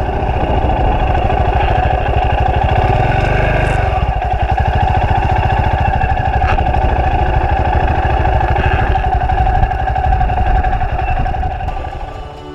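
Royal Enfield Himalayan's single-cylinder motorcycle engine running steadily. It fades in at the start and fades out near the end.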